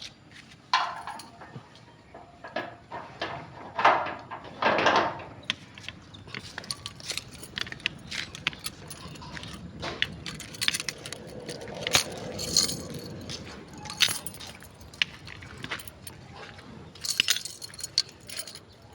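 Small hard objects being handled, with irregular clicks, clinks and knocks and a few louder rustling bursts.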